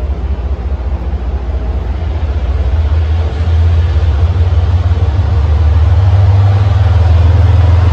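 Commuter train passing directly beneath, a steady low engine drone under the rumble of the coaches. It grows louder about three and a half seconds in.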